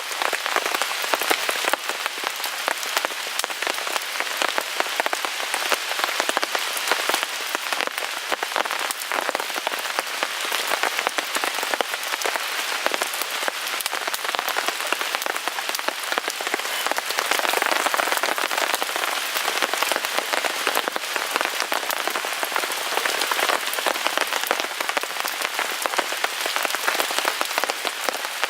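Steady rain falling on a tarp overhead, mixed with the fine crackling of a wood fire burning in a Picogrill 398 fire pit; it swells slightly about two-thirds of the way through.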